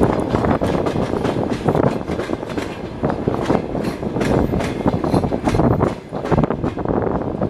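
Passenger train carriage rolling along the track: a steady rumble of wheels on rail with frequent irregular clicks and clacks of the wheels over the rails.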